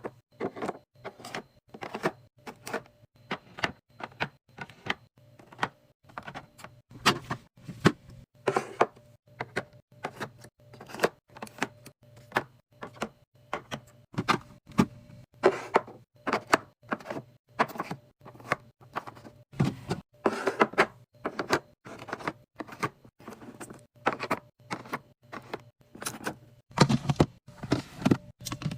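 Food containers and packages being handled and set down while a refrigerator is stocked: a run of irregular clicks, knocks and short rustles, several a second, over a faint steady hum.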